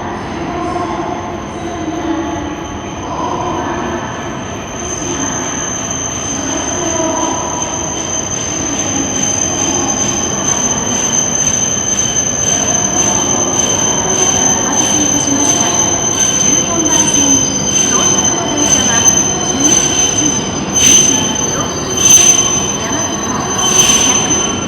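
Shinkansen train moving along the platform track with a steady high-pitched wheel squeal that grows louder, and several sharp clacks near the end.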